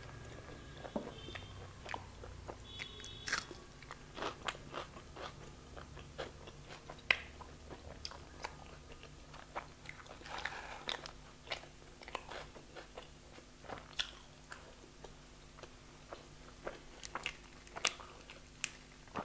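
Close-miked chewing of a mouthful of food, with many small wet clicks and lip smacks scattered irregularly. Near the end comes a sharp click as a plastic drink bottle's cap is twisted open.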